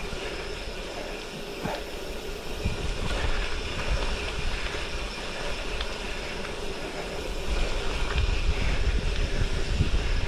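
Goodyear Connector gravel bike tyres rolling over a gravel track, a steady noise of tyres on loose stones with wind buffeting the microphone. The low rumble grows louder about eight seconds in.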